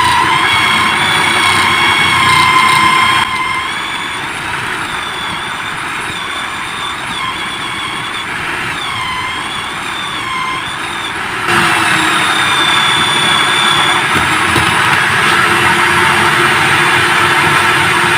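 Electric drill motor spinning a homemade grater, running with a steady whine whose pitch wavers and dips now and then. It turns abruptly quieter about three seconds in and louder again after about eleven and a half seconds.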